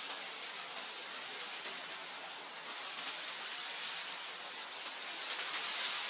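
Wind blowing over grassland: a steady airy hiss that swells slightly near the end.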